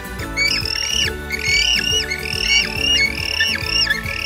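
Penguins calling in a rapid string of short, high calls, about two or three a second, each rising, holding and then dropping away, over background music.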